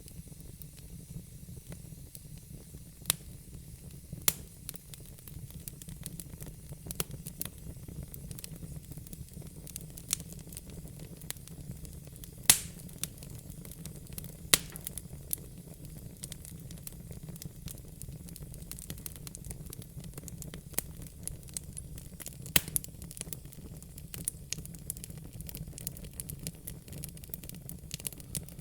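Wood fire crackling: a steady low rumble and hiss, broken by irregular sharp pops and snaps from the burning logs, a few of them much louder than the rest.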